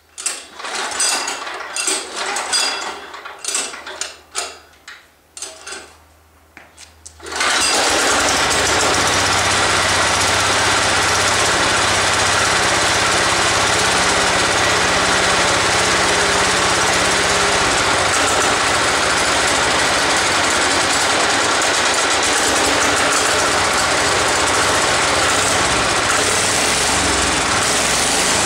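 Diesel engine of a John Deere 110 lawn tractor being cold-started: about seven seconds of uneven bursts as it is cranked and sputters, then it catches and runs steadily and loudly.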